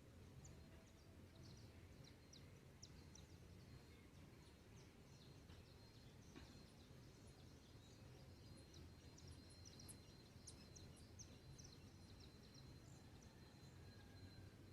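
Faint dawn birdsong: many short high chirps from several small birds, thickening in the second half, over a steady thin high tone and a low background rumble.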